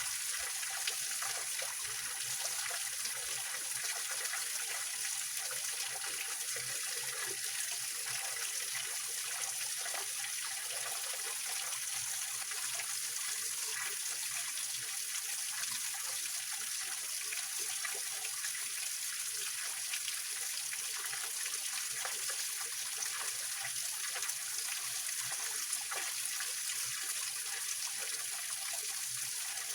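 Small mountain waterfall and stream splashing and trickling over rocks in a steady, unbroken rush of water.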